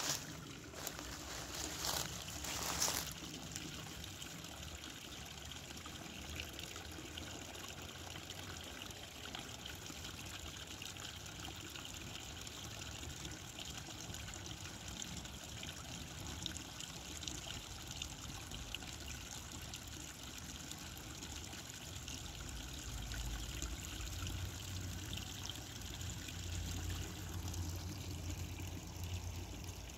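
Creek water trickling steadily, with a few sharp knocks in the first three seconds and a low rumble joining in over the last several seconds.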